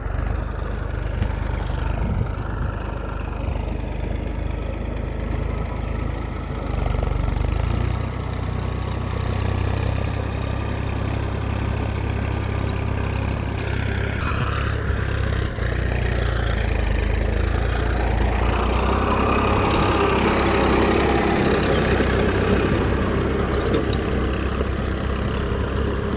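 Small DIY mini tractor's motor running continuously under a steady low hum, with a higher whine that shifts in pitch now and then and grows louder in the second half.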